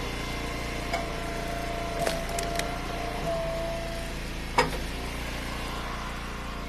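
Eastonmade wood splitter running steadily, with a held whine from about one to four seconds in and a few sharp knocks and cracks of firewood, the loudest about four and a half seconds in.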